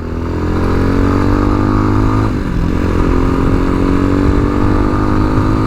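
Tao Motor TBR7 dual-sport motorcycle engine under way, the revs climbing, dropping briefly about two seconds in as a gear is shifted, then climbing again.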